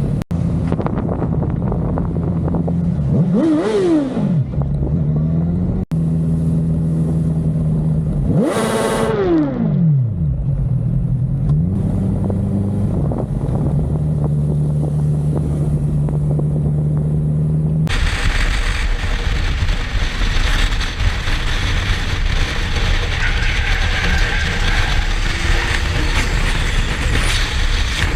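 A motorcycle engine running, revving up and back down twice in quick sweeps, the first about three seconds in and the second about eight seconds in. About eighteen seconds in the sound cuts to loud, steady wind and road rush of a ride at highway speed.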